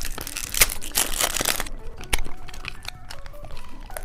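Plastic candy wrapper crinkling and tearing in a series of short rustling bursts, busiest in the first second and a half.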